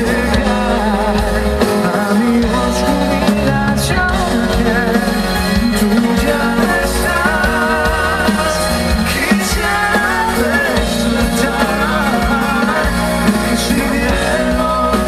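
Live band music from a concert stage, loud and continuous, with a wavering melody line carried over the full band.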